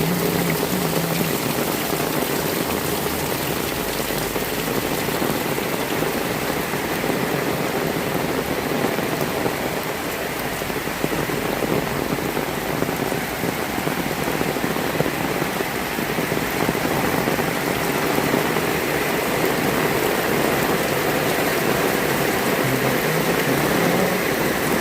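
Heavy rain falling steadily, an even hiss of drops hitting wet surfaces.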